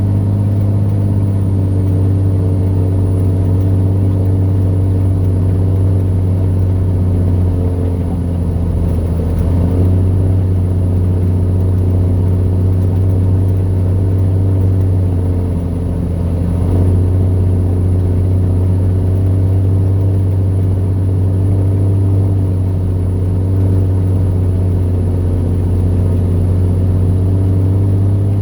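Vehicle engine running steadily under load, heard from inside the cab while climbing a mountain pass, with a strong low hum. Its note shifts about 9 seconds in and again about 17 seconds in, and a faint steady high whine runs underneath.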